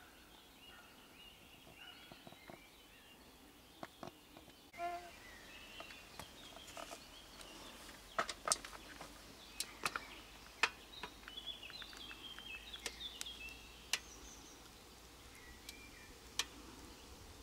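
Great tit nest-box sounds: faint short bird chirps, with sharp taps and scratches from inside the box, most frequent in the middle.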